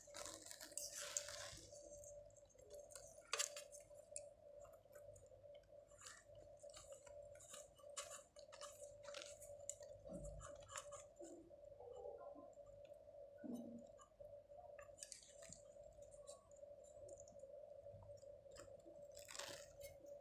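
Faint scattered clicks, taps and scrapes of small parts being handled while a small light is reassembled and connected, over a faint steady hum.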